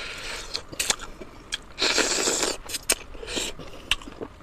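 Chewing and biting on pork leg and pork nose, wet mouth sounds broken by several sharp clicks, with a louder noisy stretch about two seconds in.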